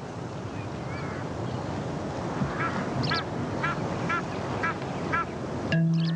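A bird calls a run of about seven short, evenly spaced notes, about two a second, over a steady outdoor hiss. Near the end a short low steady hum cuts in.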